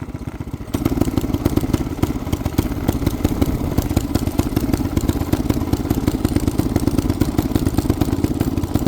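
212cc single-cylinder small engine running on choke, its firing a steady rhythmic beat that gets louder and stronger about a second in. The choke is set because the engine was running poorly in the cold.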